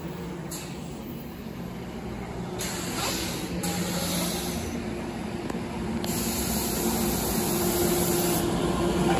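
Train passing by: a steady rush of rail and wheel noise with a low hum, growing louder toward the end.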